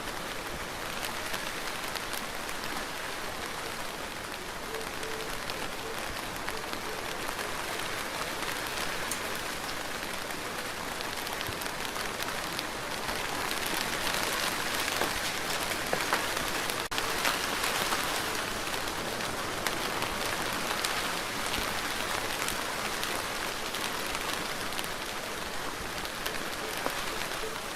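Steady rainfall, a dense even hiss with many distinct drop ticks, growing a little heavier in the middle.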